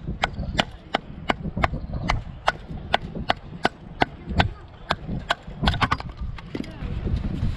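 Gerber Moment bushcraft knife chopping into wood: a steady run of sharp strikes, about three a second, which stop a little before the end.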